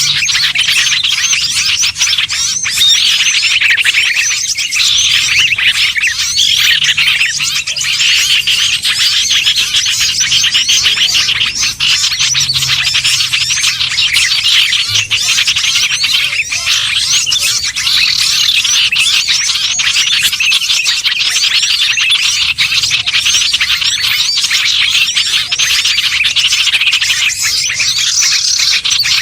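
Bird-lure recording of many small songbirds chattering and calling over one another: a dense, unbroken high-pitched twittering of quick chirps and trills.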